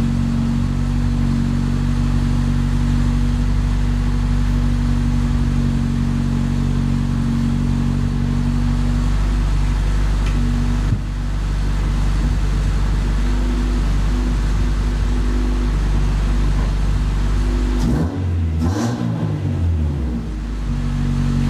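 Swapped-in DOHC engine of a Honda Civic running at a steady idle, with a short rev up and back down near the end.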